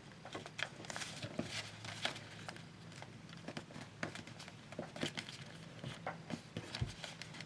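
Thick paper being folded and creased by hand: soft crinkling and rustling with many scattered small clicks and taps.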